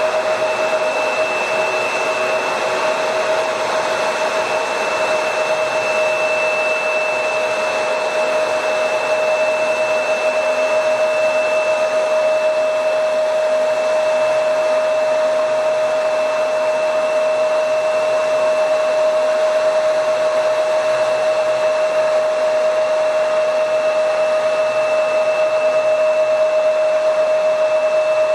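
Jet airliner's turbine engines running steadily at a constant speed: a rushing hiss with an unchanging high whine.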